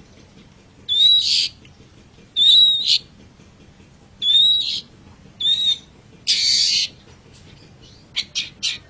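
Long-tailed shrike (cendet) calling: five harsh calls, each with a thin whistled note running through it, spaced about a second apart. Near the end these give way to a fast run of short chattering notes.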